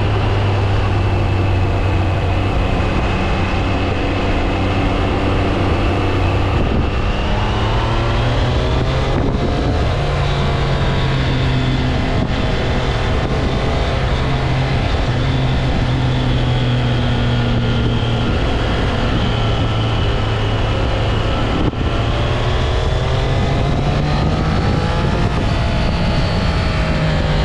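Triumph Trident 660's inline three-cylinder engine running under way on the motorcycle. Its pitch climbs about a quarter of the way in and again near the end as the bike is ridden up through the revs.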